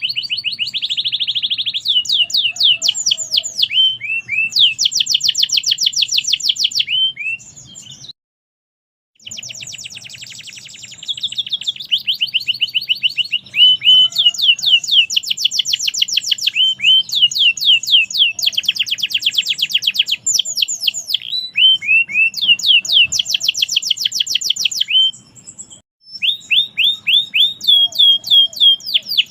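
Domestic canary singing long, rapid trills and rolling phrases of fast repeated notes, with short pauses between phrases and a one-second break about eight seconds in.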